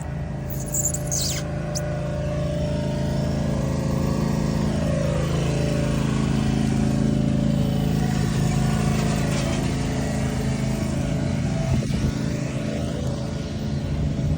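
A motor vehicle engine running steadily: a continuous low hum, with its pitch drifting slightly in the middle.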